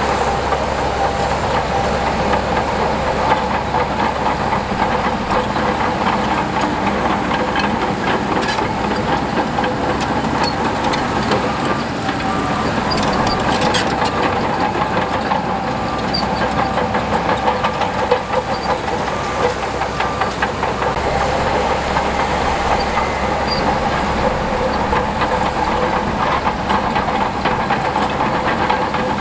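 Diesel engine of heavy earthmoving machinery running steadily, with scattered clicks and knocks over the drone.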